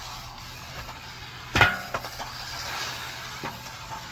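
Small 1/24-scale RC car driving, with one sharp knock about one and a half seconds in as it strikes something, followed by a few lighter ticks.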